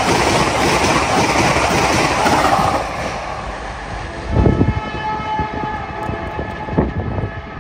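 Vande Bharat electric train set passing at speed with a loud rush of wind and wheel noise that dies away about three seconds in. A train horn then sounds steadily from down the line, with two short low thumps.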